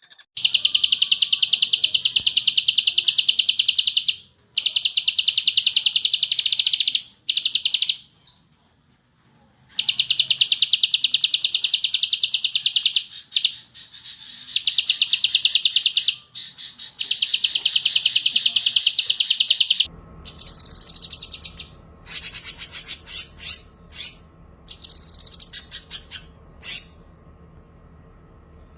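Songbirds singing: a very fast, dense trill repeated in long bursts of three to four seconds. About twenty seconds in, this gives way to shorter, separate chirps and whistles over a steady hum.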